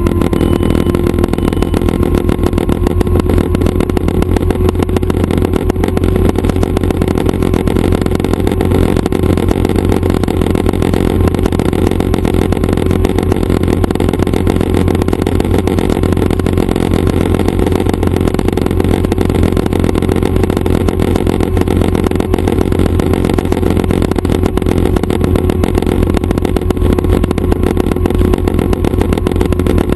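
Schweizer 269 light training helicopter running steadily: its four-cylinder Lycoming piston engine and rotors make a constant deep drone with a steady hum over it.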